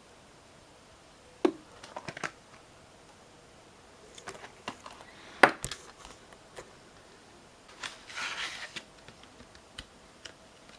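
RAM packaging being opened and handled: scattered sharp clicks and snaps, with a short rustle about eight seconds in.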